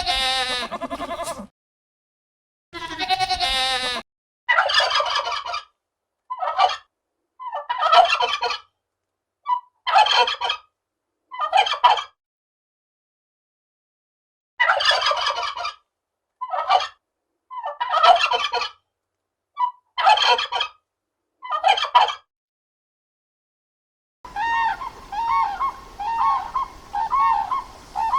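A large fowl calling: a run of short, rattling, gobble-like calls, some in quick pairs, with silent gaps between them. This follows a couple of wavering animal calls at the start. Near the end, after a pause of a couple of seconds, a different steady, evenly repeated call begins.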